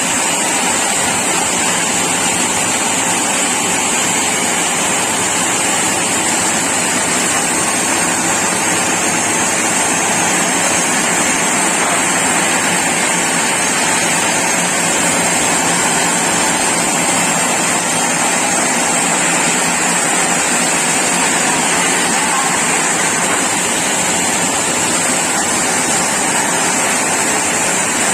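Sawmill saw cutting a mahogany log into boards: a loud, steady rushing noise with a high hiss on top, unchanging throughout.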